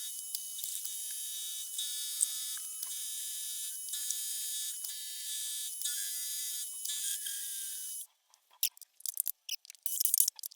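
Milling machine running a cutter at high speed through a small metal part: a steady high-pitched whine with light cutting noise. Near the end the sound breaks up into short choppy bursts and drop-outs.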